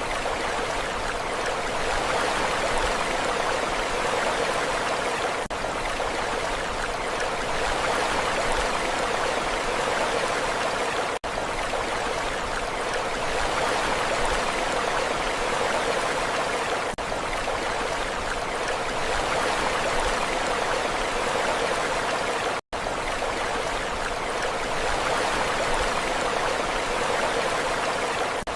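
Steady rushing water, an even hiss with no rise and fall of waves, cutting out for a split second twice.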